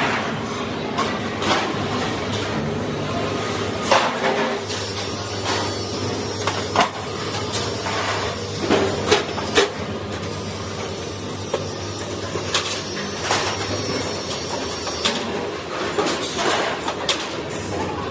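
Factory machinery running, with a steady hum and a high whine that start a few seconds in and stop near the end, and scattered sharp metallic knocks and clanks.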